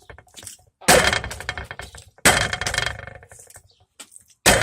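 Plastic water bottle, partly filled, landing hard on a surface three times as it is flipped, each landing followed by a short clatter as it tips and rolls.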